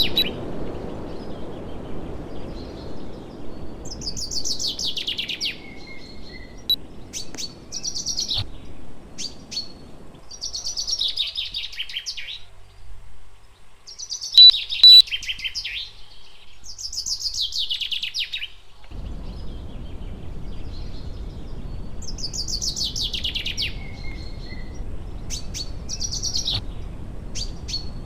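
A songbird repeats the same quick trilled phrase, falling in pitch, every five seconds or so. Two loud short electronic beeps sound near the middle. A low steady hum stops about ten seconds in and comes back near nineteen seconds.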